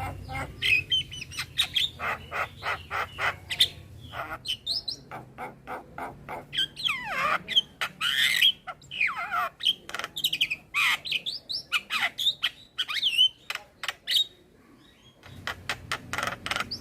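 Male Javan myna (jalak kebo) singing: a fast jumble of clicks, harsh squawks and sliding, falling whistles, with a short pause about fourteen seconds in before it starts again.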